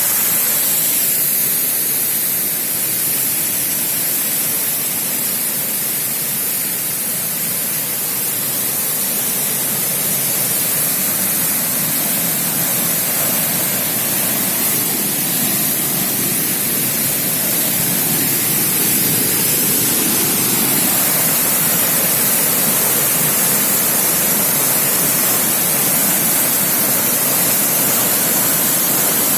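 Waterfall in spate after heavy rain: a loud, steady rush of falling water with no break.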